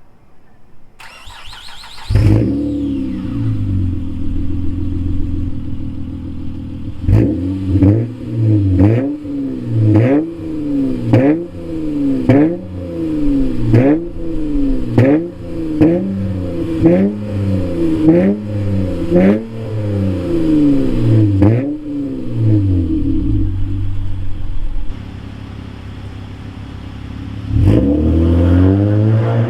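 2008 Acura TL Type S 3.5-litre V6 with its mid and rear mufflers deleted, starting about two seconds in with a flare that settles to idle. It is then revved in a run of about fifteen quick blips, roughly one a second, drops back to idle, and climbs in revs again near the end.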